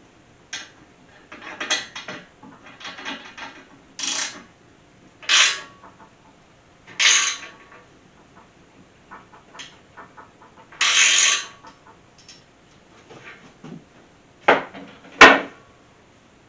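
Socket ratchet clicking in short strokes, a few seconds apart, as the engine stand's front bolts are tightened. Two sharp metal knocks near the end are the loudest sounds.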